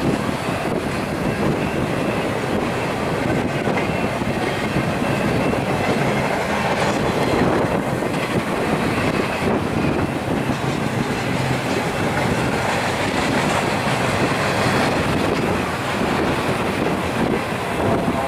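Double-stack intermodal freight train rolling past, its wheels running over the rails, with wind on the microphone.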